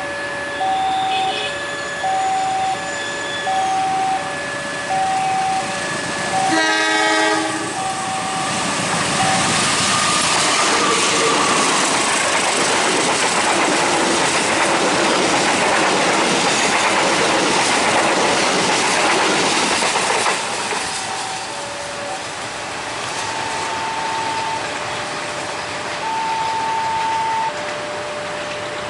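A two-tone electronic warning alarm alternates steadily. About seven seconds in, a train horn gives one short blast, and a passing train's loud rolling rush follows for about twelve seconds before the alarm is heard alone again.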